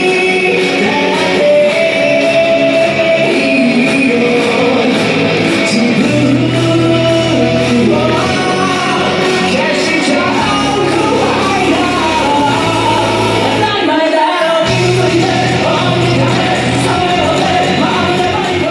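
A rock band playing a song with a singer, played loud.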